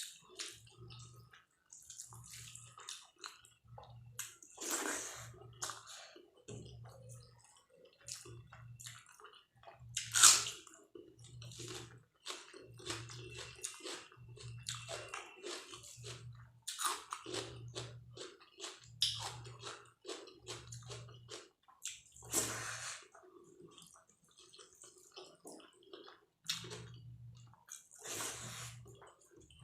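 A person eating rice and dal with vegetables close to the microphone: wet, smacking chewing at about one chew a second, with a louder sharp mouth noise every five to six seconds.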